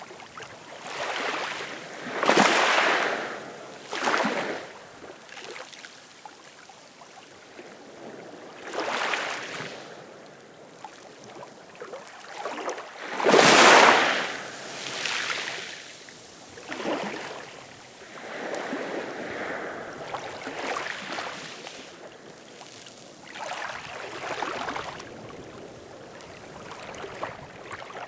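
Ocean waves breaking and washing in, one every few seconds, with the biggest about two seconds in and again near the middle.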